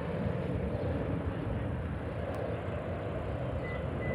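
Airbus A380 airliner's jet engines running as it taxis and turns on the ground, a steady low rumble.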